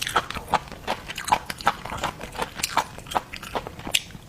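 Close-miked chewing and biting of seafood: irregular crunchy, clicking bites, several a second.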